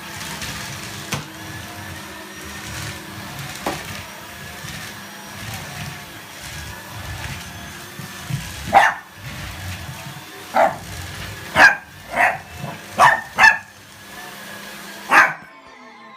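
A dog barking in short sharp barks, about seven of them in the second half, at a running vacuum cleaner whose steady hum lies underneath. Near the end the hum cuts off.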